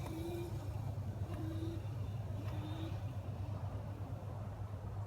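A child's small motorcycle running with a steady low rumble as it is ridden. A short, slightly rising tone comes three times, about a second apart, in the first few seconds.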